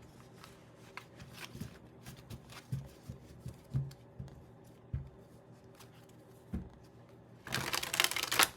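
Tarot cards being handled: scattered soft taps and slides of cards, then a brief louder rush of shuffling near the end.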